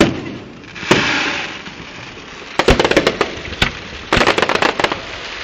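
Fireworks bursting: a sharp bang at the start, another about a second in followed by a hiss, then two runs of rapid crackling cracks near the middle and a little later.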